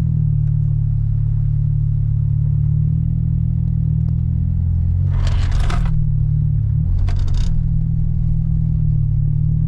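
Car engine running steadily with a low drone, its pitch shifting slightly a few times. Two short bursts of hissing noise come about five and seven seconds in.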